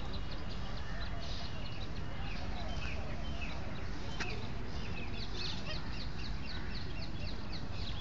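Small birds chirping and twittering over a steady low rumble, with a quick run of repeated short chirps around the middle.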